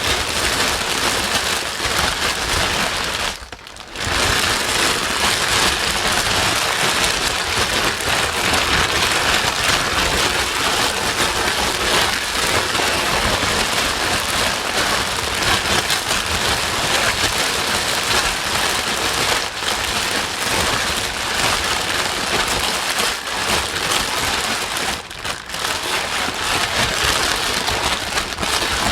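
Steady white noise: a dense, even hiss like heavy rain, with a brief drop in level about three and a half seconds in.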